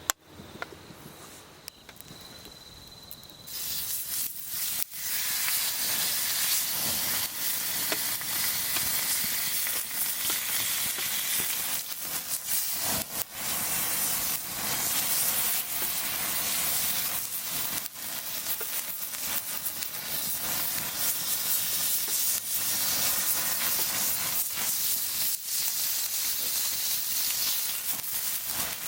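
Food cooking over a campfire: a loud, steady hiss and sizzle that starts abruptly about three and a half seconds in, with scattered crackles. Before it, a faint steady high insect-like tone.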